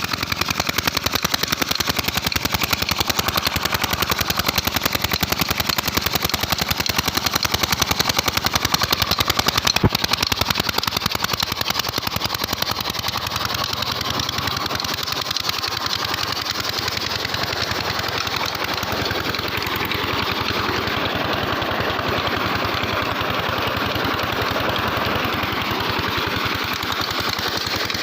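Petter 18 hp diesel engine of a tubewell system running steadily, its exhaust beating in rapid, even pulses, with a single sharp click about ten seconds in.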